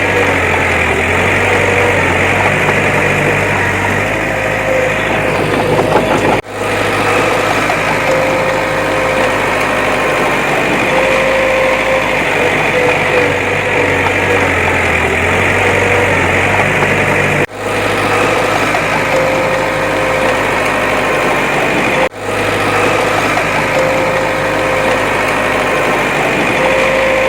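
Heavy diesel earthmoving machinery running steadily, a low engine drone with a steady high whine above it. The sound cuts out for a split second three times.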